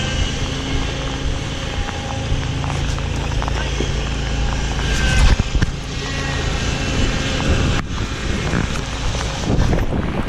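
An engine running steadily, its hum fading after about four seconds, under wind buffeting the microphone, with a couple of knocks about five seconds in.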